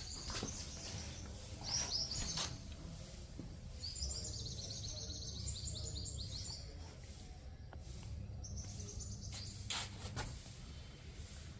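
Faint birds chirping in runs of quick high chirps, about two seconds in, again for a few seconds in the middle and once more near the end, over a steady low background hum.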